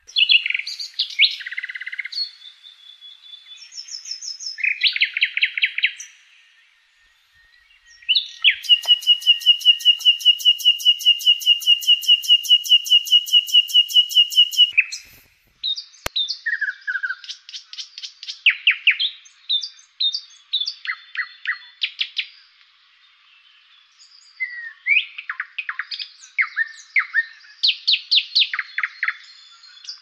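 Songbirds singing: quick chirps and short whistled phrases. From about 8 to 15 seconds in there is a long rapid trill over one held whistle, and after a sharp click the chirping resumes in fast runs.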